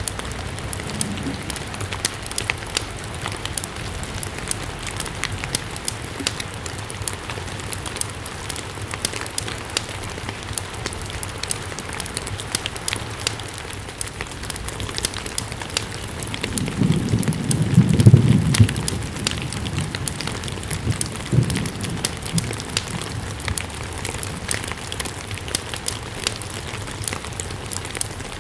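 Steady rain with the sharp crackle and pops of a burning wood fire. A low rumble swells up about halfway through, becomes the loudest sound, and fades again a couple of seconds later.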